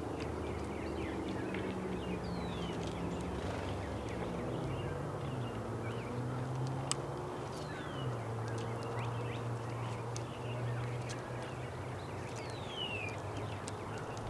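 Small birds chirping at a feeder, a few short calls falling in pitch and some sharp ticks, over a steady low hum whose pitch shifts slowly.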